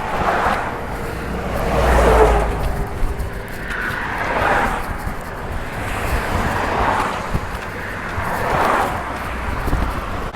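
Road traffic passing close by, about five vehicles one after another, each swelling up and fading away over a low rumble.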